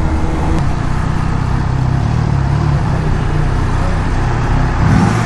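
Triumph Trident 660's 660 cc inline-three engine and exhaust running steadily under way.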